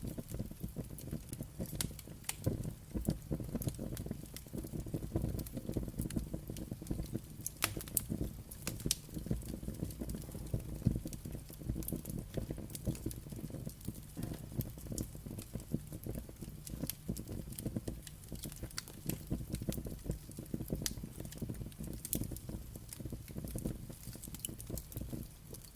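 Wood fire crackling: frequent sharp pops and snaps, irregularly spaced, over a low steady rush of the burning fire.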